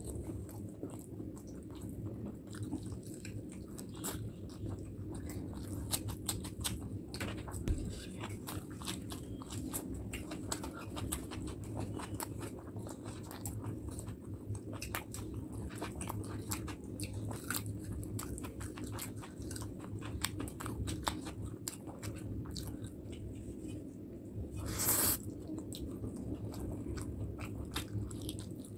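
Close-miked chewing of a mouthful of rice and curry, with many small wet smacks and clicks from the mouth. A steady low hum runs underneath. A louder, short rush of noise comes once, near the end.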